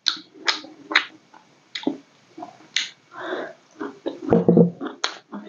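Close-up chewing of besan-fried vegetables and rice: sharp crunchy clicks and wet mouth sounds about every half second to second. A brief low voiced sound, the loudest thing here, comes about four seconds in.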